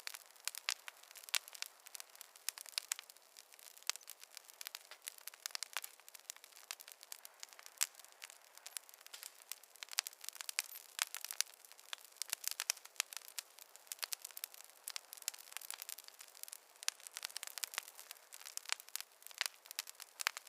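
Fire crackling in a fireplace: a constant, irregular stream of sharp pops and snaps of varying loudness over a faint hiss.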